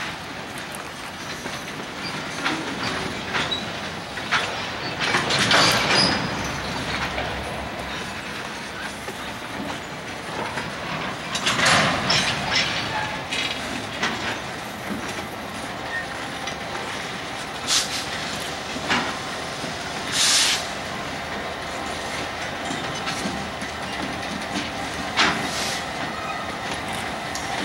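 Slow-moving freight cars being shoved past on jointed track: a steady rolling rumble broken every few seconds by loud metallic clanks and short screeches from the wheels. A diesel locomotive's engine becomes faintly audible near the end as the Canadian Pacific units approach.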